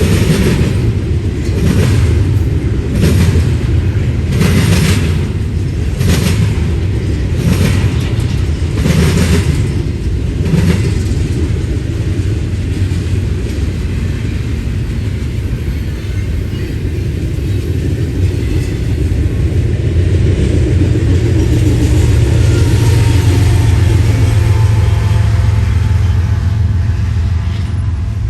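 A train rolling past with a heavy low rumble, its wheels clicking over rail joints about once a second for the first ten seconds or so. The rumble then turns steady and swells toward the end.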